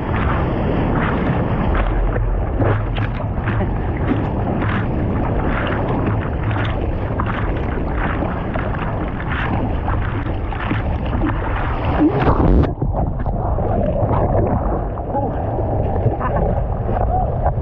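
Wind and surf buffeting the microphone: a constant rumbling rush broken by gusts and water splashes, with a louder surge about twelve seconds in.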